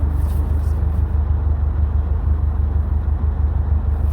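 Subaru WRX STI's turbocharged flat-four engine running at a steady cruise with tyre and road noise: an even low drone with no rise or fall in pitch.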